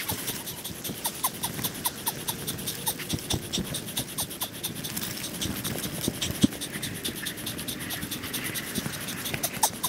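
Mountain bike ridden over a rough, wet trail: rapid clicking and rattling from the bike, with short squeaks scattered through.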